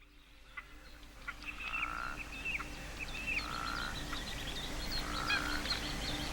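Marsh ambience fading in: frogs calling. A short call repeats about every second and a half to two seconds over many small, quick high chirps.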